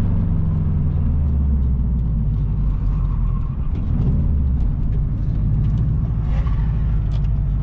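Car engine running, a steady low drone whose note shifts about four and a half seconds in.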